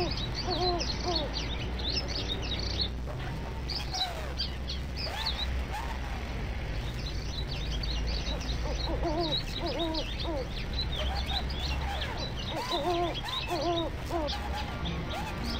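Birds calling in the trees: quick high chirping mixed with lower, rising-and-falling calls in short runs, over a steady low rumble.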